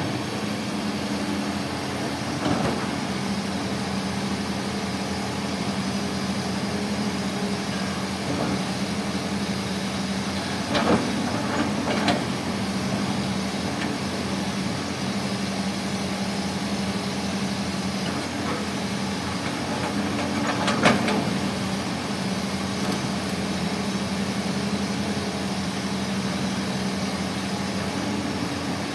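Heavy diesel engine of the excavator or dump truck running steadily at a low, even speed, with a few short sharp knocks: two close together about eleven and twelve seconds in, and a louder one about twenty-one seconds in.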